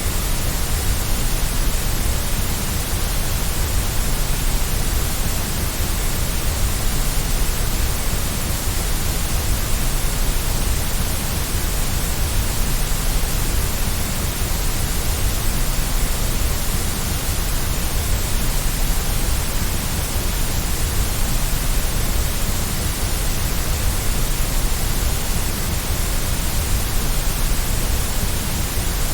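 Steady white noise for lulling a baby to sleep: an even hiss over a low rumble, unchanging throughout.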